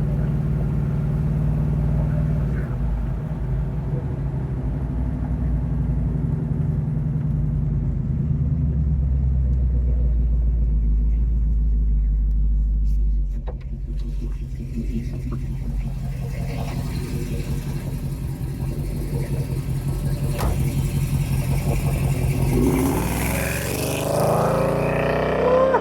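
Rebuilt Chevy 396 big-block V8 of a 1972 Buick Skylark running under way, heard from inside the cabin with road noise: a steady low engine drone that drops off about halfway through as the car eases off.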